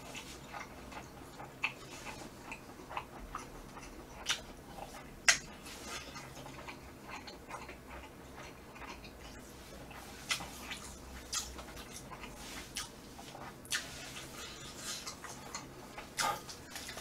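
Close-miked mouth sounds of chewing food: scattered soft wet clicks and smacks, with a sharper click about five seconds in.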